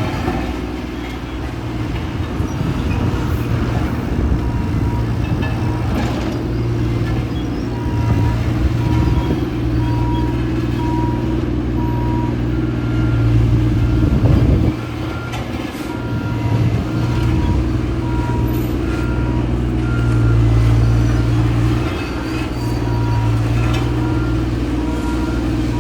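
Heavy diesel road-work machinery running steadily at a work site, with backup alarms beeping at regular intervals; a second, higher-pitched alarm joins about halfway through.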